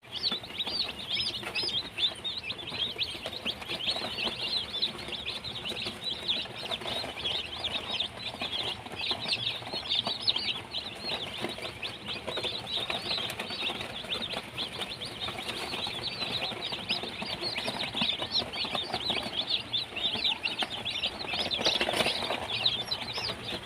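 A brood of day-old Early Bird gamefowl chicks peeping nonstop in a brooder: many short, high chirps overlapping into a steady chorus.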